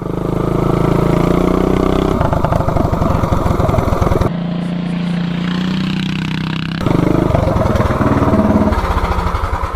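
Minibike's Predator 420cc single-cylinder engine with an open header pipe running at high revs, its tone changing abruptly a few times.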